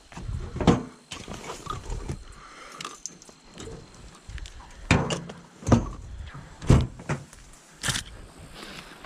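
Hunting hounds barking in several short, separate barks during a deer dog drive, over low rumbling noise.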